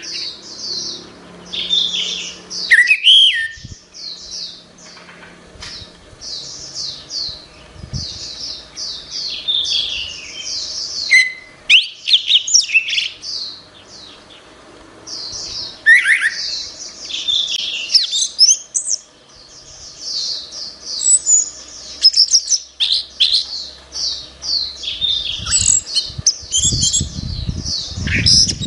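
Orange-headed thrush singing a long, varied song of rapid chirps and whistled phrases, one quick run after another. A low rumbling noise sits under the song near the end.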